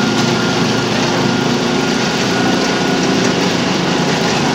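Small petrol engine of a Muck-Truck motorised power barrow running steadily.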